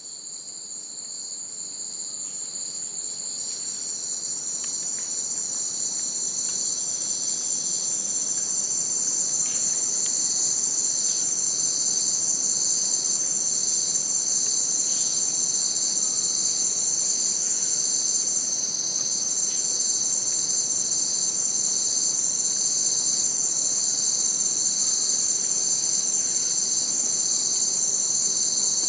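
A continuous chorus of insects: several steady, high-pitched trills layered together, one pulsing evenly. It fades in over the first few seconds and then holds steady.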